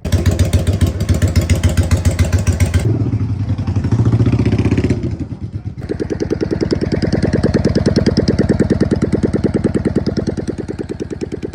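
Yamaha V-Star V-twin motorcycle engine running with a loud, pulsing exhaust. It revs up about three to five seconds in, then settles back to a steady run.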